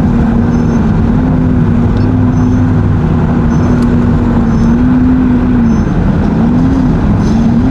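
Engine running loudly and steadily, its pitch wavering and dipping and rising a few times near the end, with faint short high chirps repeating about once a second.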